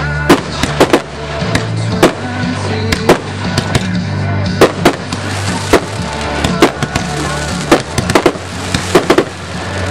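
Aerial firework shells bursting in quick succession: a long string of sharp bangs, at times two or three within a fraction of a second. Music plays steadily underneath.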